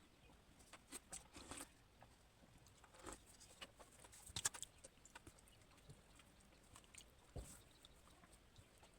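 Faint eating sounds: a few short, scattered clicks and smacks over near silence, the loudest about four and a half seconds in.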